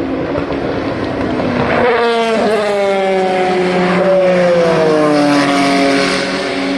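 Race car engines running past at racing speed; about two seconds in, one car comes close and its engine note drops steadily in pitch over the following seconds, stepping lower again near the end.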